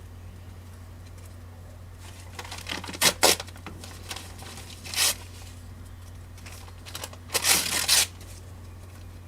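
Short rasping, tearing noises: two quick ones about three seconds in, another at five seconds, and a longer one lasting over half a second near the end. A steady low electrical hum runs beneath them.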